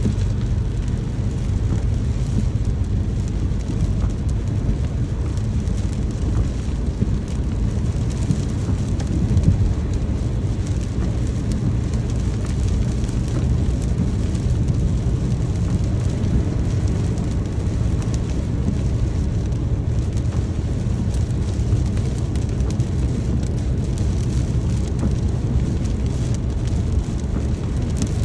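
Steady rain with a deep, even rumble underneath and fine pattering on top.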